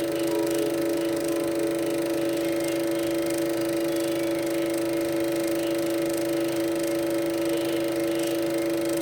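A steady drone of several held tones from a Super 8 film's soundtrack, played through a sound projector.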